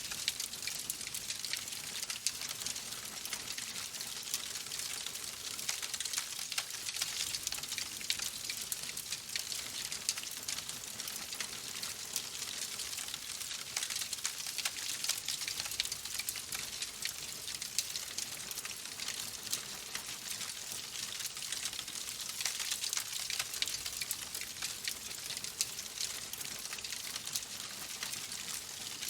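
Fireplace fire crackling: a steady hiss full of dense, small pops and snaps.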